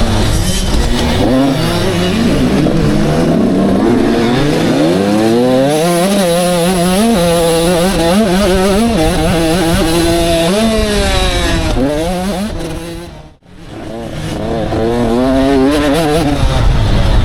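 Several 85cc two-stroke motocross bikes racing, their engines revving up and down with each gear change and overlapping one another. About three-quarters through the sound dies away almost to nothing, then the bikes build back up.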